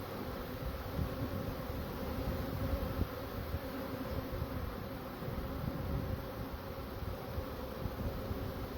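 Honey bee swarm buzzing with a steady hum as the bees march into a hive box, many of them fanning at the entrance.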